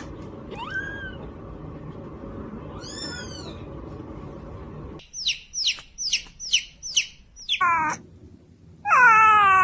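Domestic cat meowing: a couple of meows over background hiss, then a quick run of high-pitched mews about two a second, ending in one long, loud falling meow.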